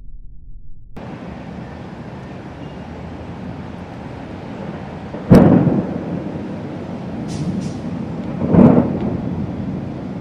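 Two close thunderclaps from lightning, the first about five seconds in and the second about three seconds later, each a sudden crack that trails off into a rumble. A steady hiss of storm noise starts abruptly about a second in and runs under them.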